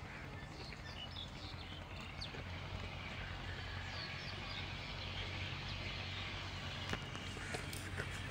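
Outdoor ambience of short bird chirps over a low steady hum, with a few sharp clicks and crackles near the end.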